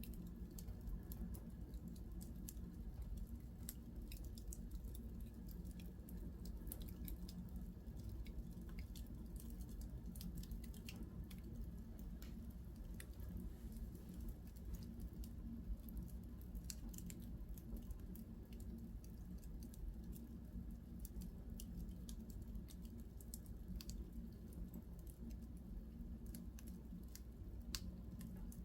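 Wood fire in a fireplace crackling softly, with scattered irregular small pops and snaps over a steady low rumble.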